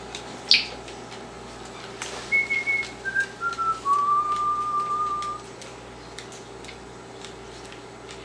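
Whistling: a quick high chirp, then a slow descending phrase of four clear notes, the last held for over a second.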